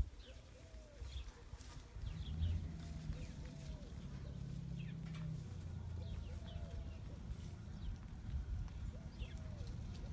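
Small birds chirping repeatedly in short, quick, falling chirps. A low rumble comes in about two seconds in and runs on underneath.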